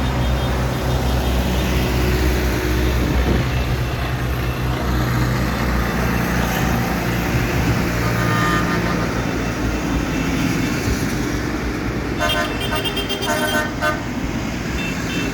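Tractor engines running as they pass in a road procession, then a horn sounding in a rapid series of short toots about twelve seconds in.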